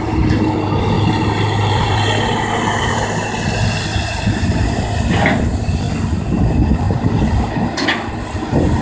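Kobelco excavator running steadily while digging, with a low engine hum and two short sharp metallic sounds about five and eight seconds in.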